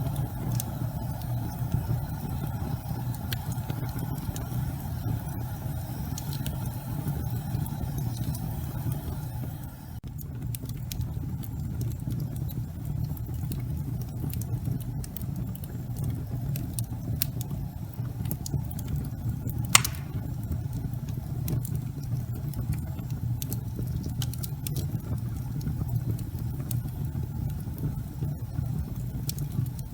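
Wood fire burning in a fireplace: a steady low rumble with scattered crackles and one sharp pop about twenty seconds in.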